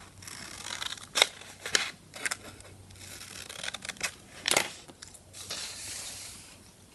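Scissors cutting construction paper: a run of sharp, irregular snips with paper rustling and crinkling between them.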